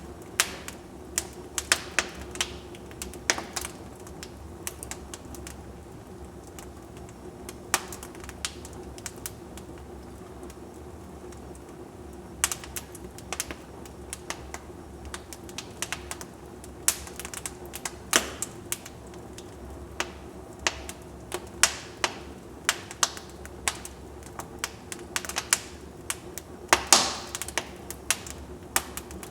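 Wood fire in a fireplace crackling: irregular sharp pops and snaps over a low steady hiss, sparse for several seconds and then coming thicker, with the loudest pop near the end.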